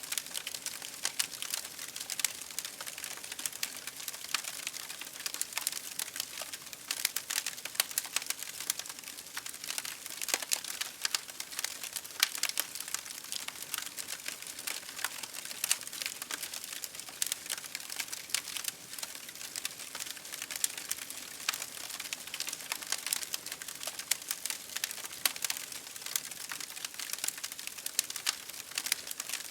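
Campfire burning, with steady dense crackling and frequent sharp pops and snaps of burning wood over a soft hiss.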